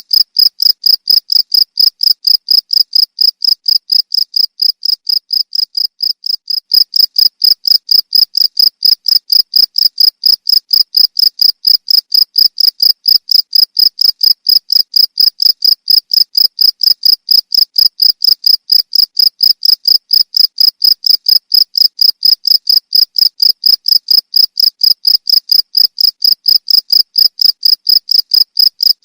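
Cricket chirping: an even, unbroken run of high chirps, about three to four a second, all on one steady pitch.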